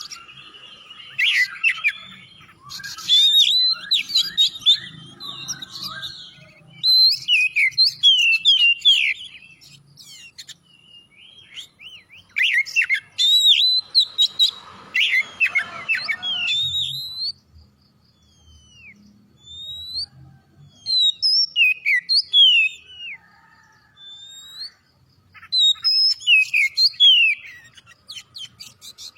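Oriental magpie-robin (kacer) in full song: rapid, varied whistles and chirps in phrases broken by short pauses.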